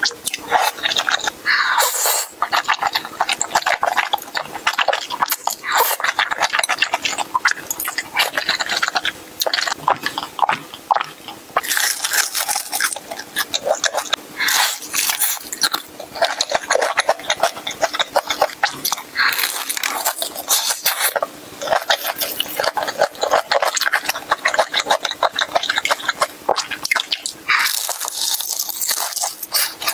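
Close-miked eating sounds: chewing of saucy stir-fried noodles, with crunching bites of deep-fried chicken near the end. Many short crackles and clicks come in bursts every second or two.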